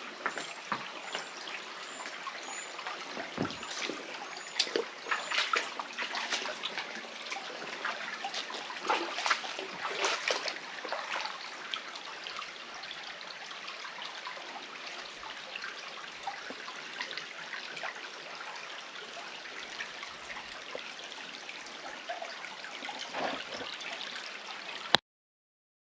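Mountain stream running over rocks in a gorge, a steady trickling and splashing with frequent small splashes; it cuts off suddenly near the end.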